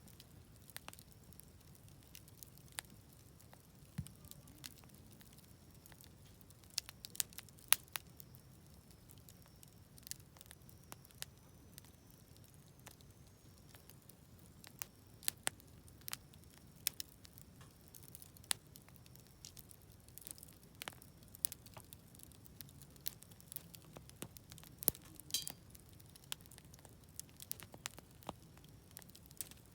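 Wood fire burning in a Snow Peak fire pit, crackling with irregular sharp pops, sometimes several in quick succession, over a faint low rumble.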